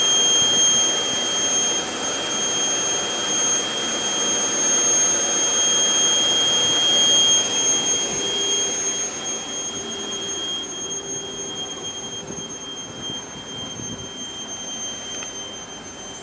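A bus giving off a loud, steady high-pitched whine over its engine and road noise, the weird noise that it keeps making; the whole sound fades over the last few seconds.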